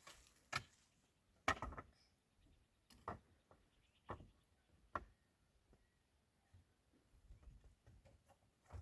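A handful of sharp knocks or taps, roughly one a second for the first five seconds with the loudest a second and a half in, then only faint small ticks.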